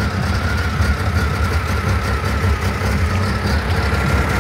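Car engine idling steadily with a deep, even rumble and a thin steady whine above it.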